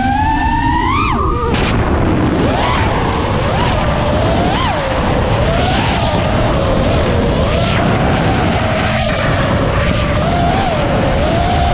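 FPV racing quadcopter's brushless motors (RCinPower GTS V2) whining, the pitch rising and falling in repeated swells as the throttle is worked. From about a second and a half in, a heavy rush of wind on the onboard camera's microphone runs under the motor whine.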